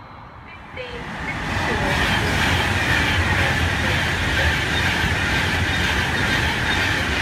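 Train running through the station, its noise swelling quickly about a second in, then a loud steady rush of wheels on rail.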